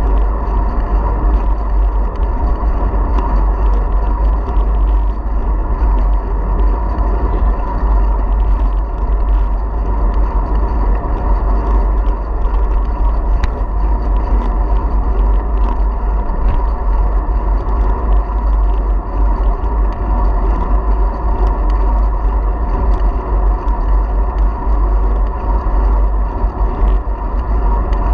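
Wind buffeting and rumble on a bike-mounted camera's microphone while cycling, steady throughout, with faint scattered clicks and knocks from the bike over the ground.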